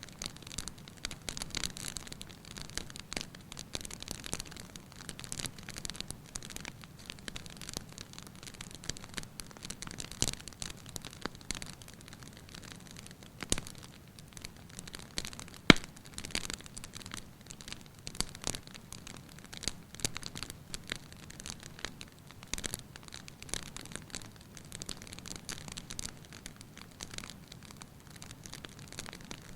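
Wood fire in a fireplace crackling steadily, with a few louder pops, the loudest one about halfway through.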